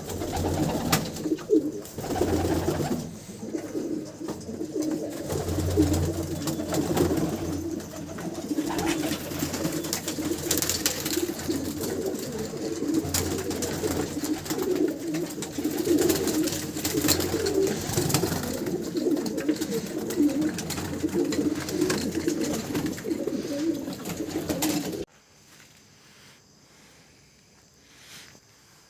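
Racing homer pigeons cooing together, a dense unbroken chorus of low coos with scattered clicks. It cuts off suddenly near the end.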